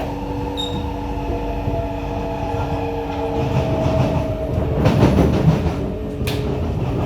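C151A metro train running, with steady whining tones from the drive under the running noise. About five seconds in the wheels rumble louder over the track, and a brief sharp high sound cuts through a little after six seconds.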